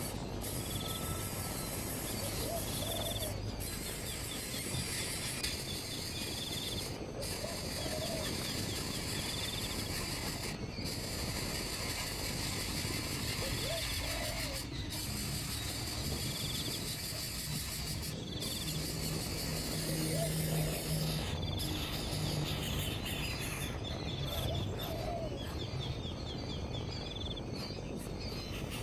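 Steady outdoor noise with faint, short chirping calls repeating every second or two.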